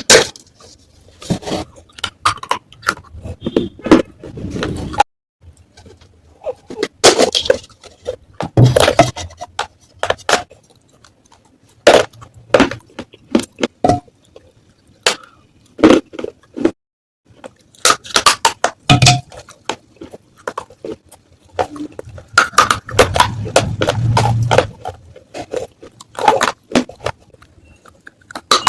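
Pieces of a fired clay pot (matka) being crunched and snapped: a long run of irregular sharp cracks and crumbly crackling, with a couple of brief pauses.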